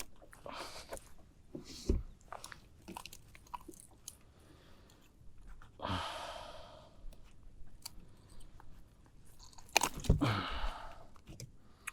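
Close-up handling noises while landing and unhooking a small redfish on a kayak: scattered knocks, clicks and rustles. There is a brief swish about six seconds in and a louder cluster of knocks near ten seconds.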